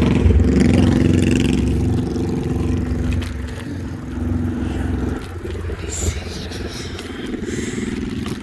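A motor vehicle's engine running close by, then fading over a few seconds as it moves away, leaving fainter traffic noise.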